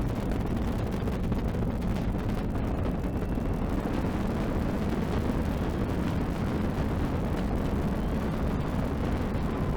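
Launch roar of the SLS rocket's solid rocket boosters and RS-25 engines: a steady deep rumble full of fast crackling.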